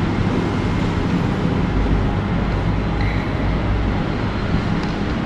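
Steady running noise of a train standing at a station platform, with a deeper low rumble from about two to four seconds in.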